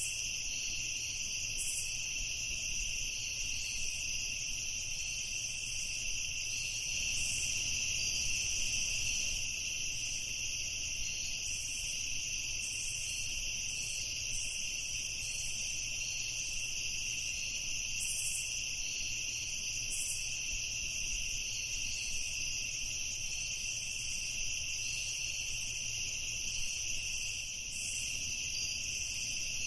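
Night chorus of crickets trilling steadily without pause, with an occasional short, higher chirp over it and a faint low rumble beneath.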